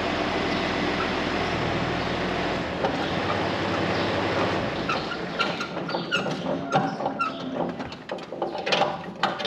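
A tractor engine running steadily, fading out about halfway through, followed by a run of sharp metal squeaks and clanks.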